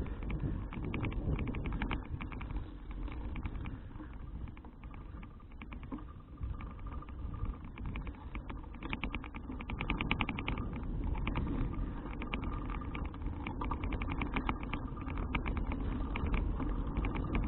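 Riding noise from a Citycruiser CFH700 folding bicycle: a steady low rumble of wind and tyres on the action camera's microphone. Over it run rapid, light, irregular clicks and rattles.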